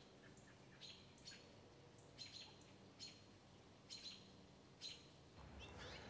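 Near silence with faint, short bird chirps about once a second.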